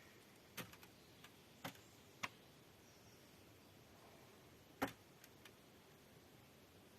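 A wood fire in a fireplace, giving off a few scattered sharp pops and crackles over a quiet background. The loudest pop comes about five seconds in.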